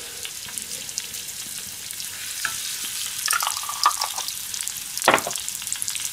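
Meat and sweet bean paste sizzling and crackling in oil in a frying pan over low heat. A few light clinks come about three seconds in, and a single sharp knock about five seconds in.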